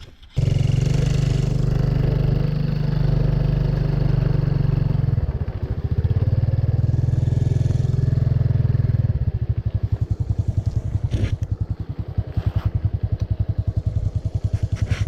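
Motorbike engine running close by as the bike rides off, its note shifting about five seconds in and again about nine seconds in, where the engine's beat becomes more distinct.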